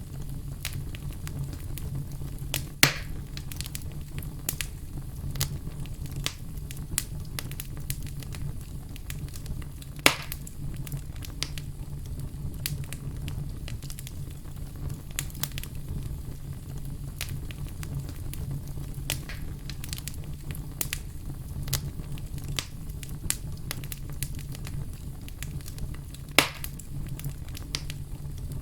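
Fire crackling steadily over a low rumble, with many small snaps. Three much louder pops come about three seconds in, ten seconds in, and near the end.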